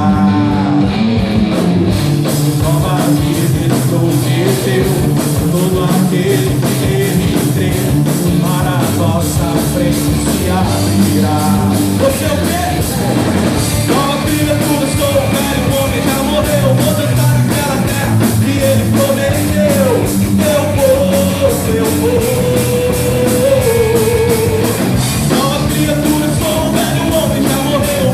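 A rock band playing a Brazilian worship song, with drums, bass and electric guitar and a steady beat. About twelve seconds in, a high melodic lead line comes in over the band.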